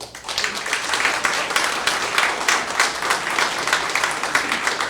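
Audience applauding: many hands clapping together, swelling in at the start and then holding steady.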